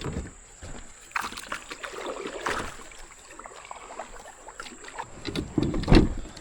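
Irregular knocks and scrapes of gear being handled against a kayak hull, with a louder thump about six seconds in.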